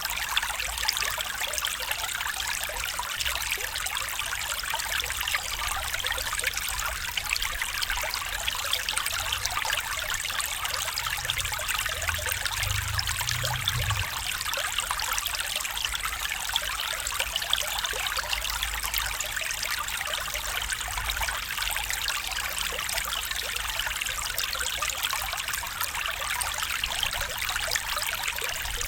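A small stream trickling and babbling steadily over stones, with a faint low rumble that swells briefly about halfway through.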